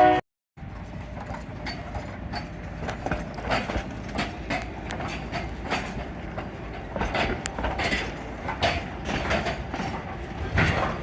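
Narrow gauge train rolling slowly on track, a steady rumble broken by irregular clicks and clanks from wheels and rail joints.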